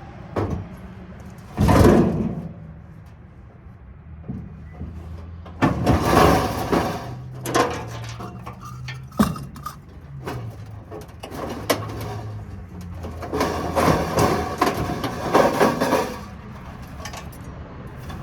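Metal clanking and scraping in several loud bursts as scrap light fixtures and sheet metal are handled and broken down, over a steady engine hum.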